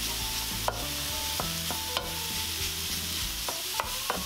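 Very lean ground beef sizzling in a hot electric skillet as a wooden spoon chops and stirs it, with a few sharp knocks of the spoon against the pan.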